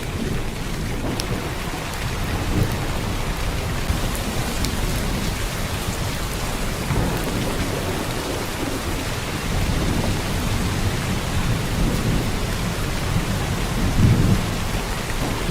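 Heavy rain pouring steadily, a dense even hiss with a deep low rumble that swells briefly near the end.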